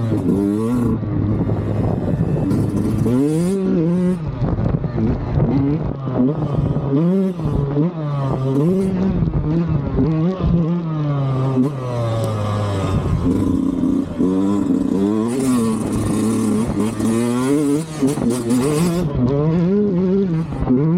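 Sherco 125 SE Factory two-stroke enduro engine with a Fresco exhaust, revving. Its pitch holds fairly steady for the first few seconds, then repeatedly rises and drops back, about once a second or two, as the throttle is opened and closed.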